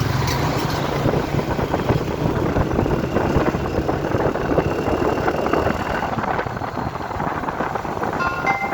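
Heavy truck engine running steadily, with road rumble.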